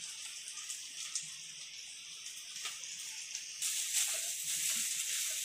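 Oil sizzling softly under onions and shredded chicken frying in a pan. The sizzle grows louder about three and a half seconds in, as a wooden spatula starts stirring it.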